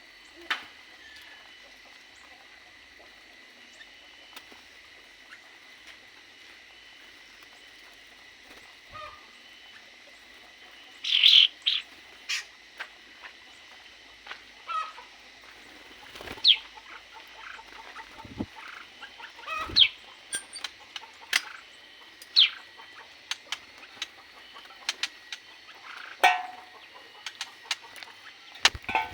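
Aviary birds giving scattered short, sharp calls and chirps after a quiet start, the loudest burst about eleven seconds in, over a faint steady high whine.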